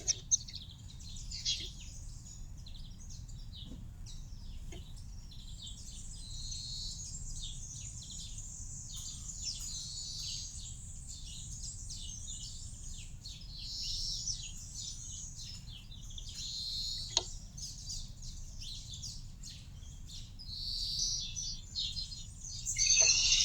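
Small garden birds chirping and twittering continuously, a dense run of short high calls, louder near the end.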